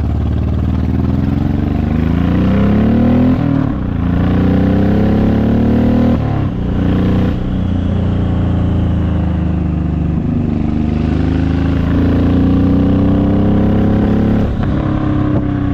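Honda VTX1800's 1800 cc V-twin, fitted with Vance & Hines aftermarket pipes, accelerating: the engine note climbs, dips sharply at each upshift, and climbs again, about four times.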